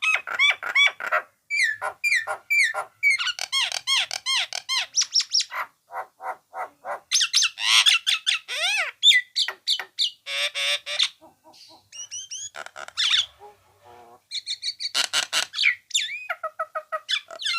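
Nias hill myna calling: a fast, varied string of loud whistles, squawks and rapid repeated notes, some gliding up or down in pitch, with a couple of short pauses.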